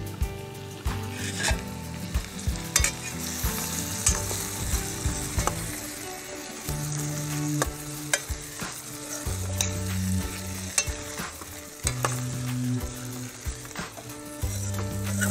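Raw chicken leg pieces sizzling in hot oil with chopped onions in a stainless steel pot. A steel ladle stirs them, clicking and scraping against the pot many times.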